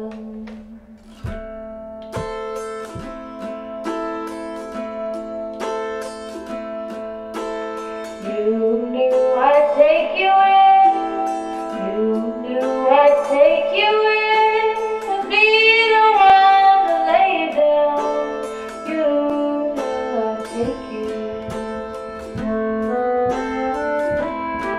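Folk string band playing an instrumental break: steadily picked acoustic guitar and plucked strings, with a Stroh violin taking a sliding, wavering melody from about eight seconds in.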